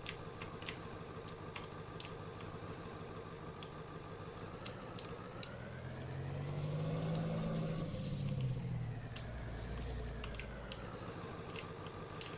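Vehicle engine and road noise heard from inside the cab while driving, with light clicks and rattles scattered through it. The noise swells louder between about six and ten seconds in, then settles again.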